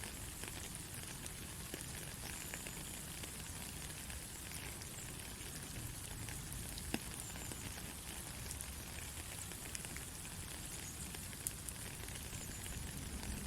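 Steady light rain: an even hiss with scattered individual drops ticking.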